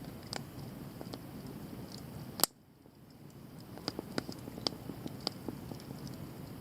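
Wood bonfire crackling, with scattered small snaps and one loud pop about two and a half seconds in, after which the sound briefly drops away and comes back.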